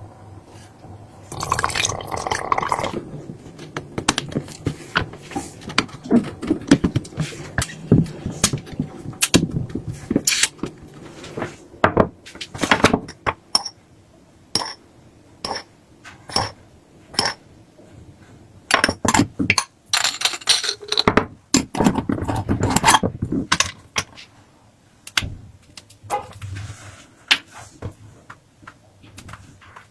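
Kitchen food-preparation sounds: a long run of sharp clicks and clinks of utensils and dishes, with two longer noisy stretches, one about two seconds in and one around twenty seconds in, that sound like liquid being poured or stirred.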